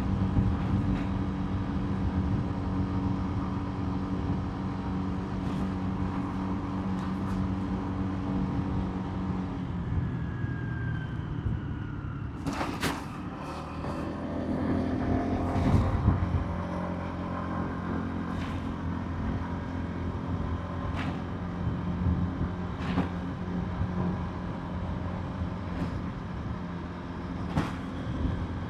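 Motorbike engine running at a steady speed over road and wind noise; about ten seconds in its note drops as it slows, then rises again a few seconds later as it speeds up, with a sharp knock in between.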